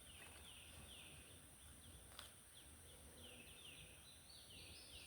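Quiet outdoor ambience with a bird repeating short, high, falling chirps. A faint click comes a couple of seconds in.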